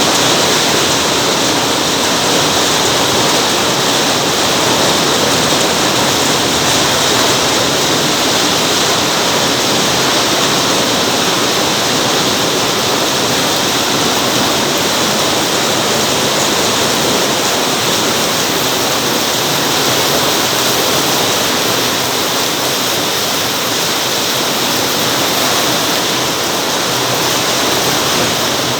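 Heavy rain pouring down in a steady, dense hiss that holds level throughout.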